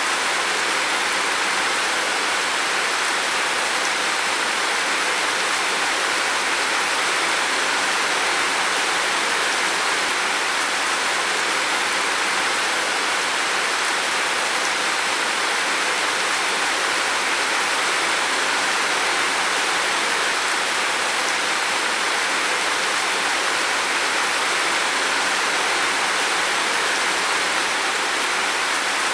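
Heavy rain falling steadily on a roof: a dense, even hiss with no single drops or gusts standing out.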